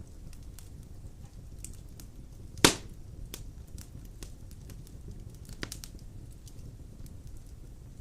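Large logs burning in a fireplace: a steady low rumble of flames with scattered faint crackles. One loud, sharp pop comes about two and a half seconds in, and a smaller one follows later.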